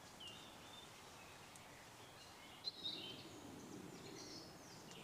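Faint birdsong: a few scattered short chirps and whistles from small birds in the trees, with a brief cluster of calls about halfway through, over a very quiet background.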